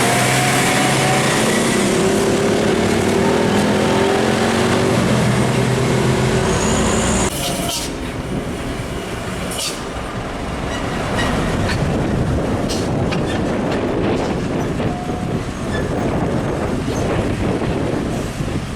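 Heavy diesel container trucks passing on a highway. For the first seven seconds a deep engine drone dominates, its pitch sinking slightly. It then breaks off abruptly into steady traffic rumble and tyre noise.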